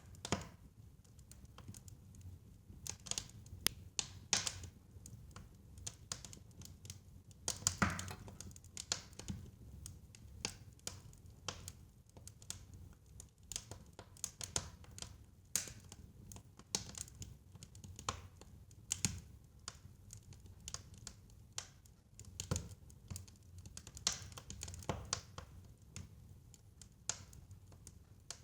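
Fire in a fireplace crackling: irregular sharp pops and snaps, some much louder than others, over a steady low rumble of the flames.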